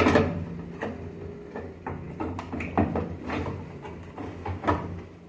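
A hard plastic knock, then irregular clicks and clattering knocks as the plastic detergent dispenser drawer of a Brastemp 17 kg washing machine is pulled and worked loose from its housing.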